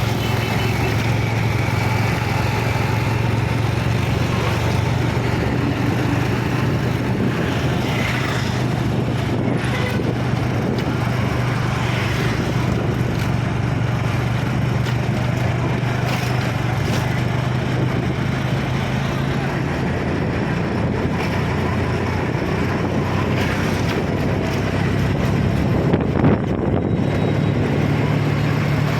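Engine running at a steady speed, a constant low drone with a noisy rush over it.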